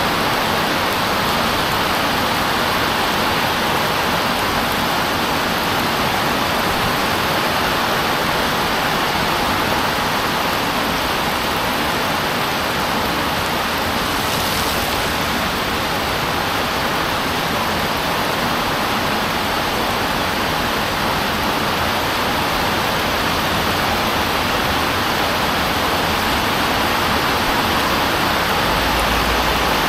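Heavy rain pouring down on a paved road and roadside banana plants: a steady, even downpour hiss.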